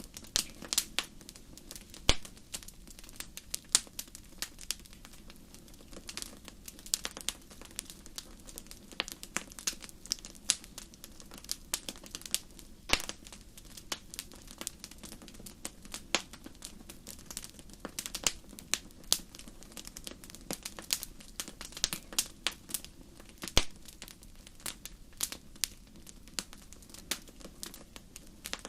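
Wood campfire crackling: irregular sharp pops and snaps, a few louder than the rest, over a soft steady low background.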